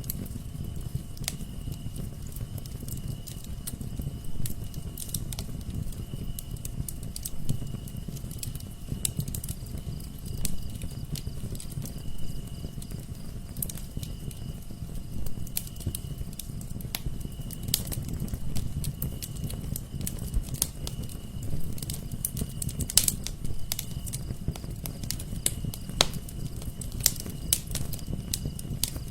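Wood fire burning in a fireplace, crackling with frequent irregular sharp pops over a steady low rumble of the flames. A faint steady high tone runs underneath.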